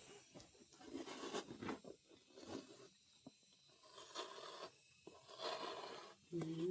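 Silkworms chewing mulberry leaves: a soft, continuous crackling and rustling made of many small, irregular crunches.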